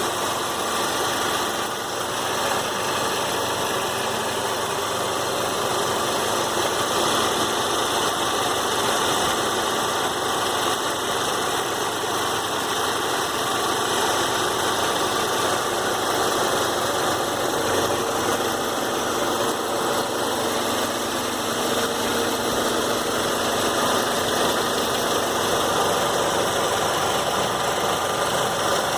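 Saab 9-3 2.0t turbocharged four-cylinder engine running steadily at operating temperature, with the clicking noise that shows up around 3000 rpm.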